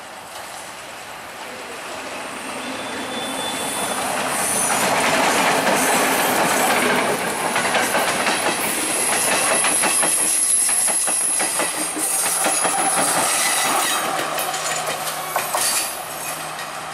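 Sri Lanka Railways Class S10 diesel multiple unit approaching and passing close by, its wheels clicking rhythmically over the rail joints, with a thin high whine as the cars go past. It grows louder over the first few seconds and fades near the end as the train draws away.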